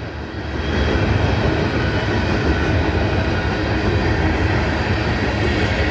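Freight train of tank cars rolling past close by: a steady rumble with the rush of wheels on rail, growing louder about half a second in and then holding.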